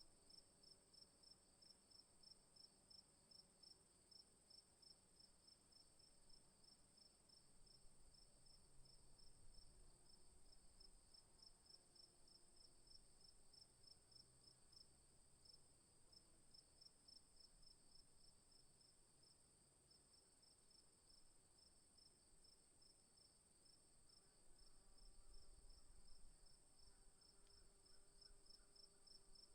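Faint insect chorus: a steady high trill with an evenly pulsed chirp about three times a second.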